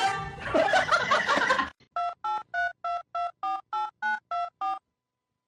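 Music cuts off after under two seconds. Then telephone touch-tone keypad beeps follow: about a dozen quick two-note tones, roughly four a second, stopping a little before the end.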